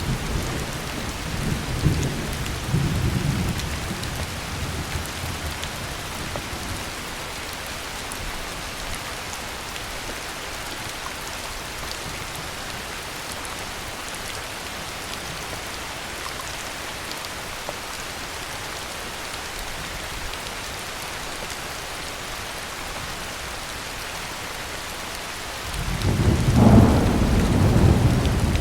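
Heavy rain falling steadily. A low rumble of thunder dies away over the first few seconds, and another louder roll of thunder builds near the end.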